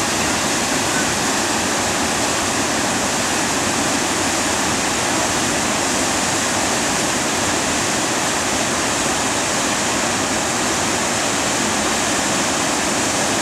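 Steady rushing of water pouring over a 17-foot river waterfall, an even hiss that stays at one level throughout.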